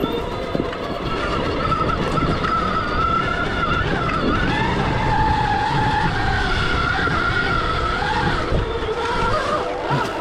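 Stark Varg EX electric dirt bike being ridden off-road: the motor's whine rises and falls with the throttle over a rough rumble from the tyres and ground.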